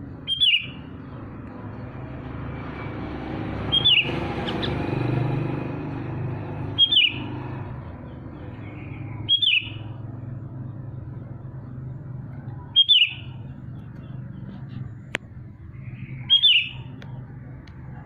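A songbird giving short, sharp, falling calls, six in all, roughly every three seconds, over a low background rumble that swells about four seconds in.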